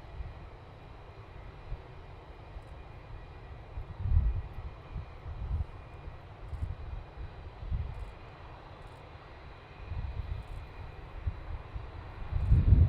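Boeing 787-9 airliner's jet engines rumbling low during its landing, swelling and fading unevenly.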